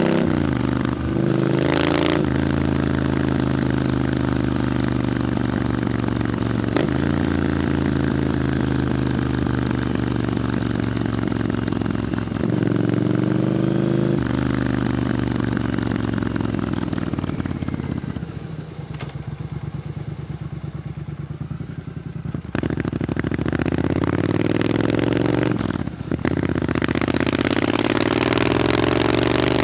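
Triumph Scrambler 900's parallel-twin engine through an Arrow exhaust while riding, its revs rising and falling with gear changes. It drops to a quieter, low-rev stretch from about 18 to 22 seconds in, then pulls away again.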